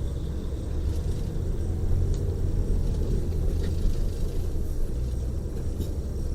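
Tour coach cruising on the freeway, heard from inside the passenger cabin: a steady low rumble of engine and road noise, with a few faint light ticks.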